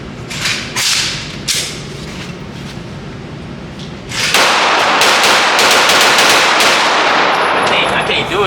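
A few single gunshots in the first second and a half, then about four seconds in a long string of rapid semi-automatic shots fired as fast as the shooter can pull the trigger, so close together they run into one continuous noise before stopping near the end.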